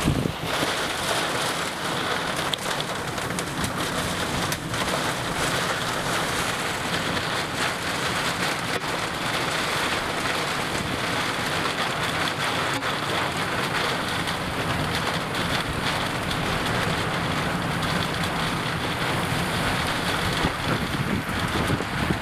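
Heavy thunderstorm rain pelting down in strong wind, a steady rushing noise dotted with many sharp drop hits, from the storm feeding an EF-4 tornado.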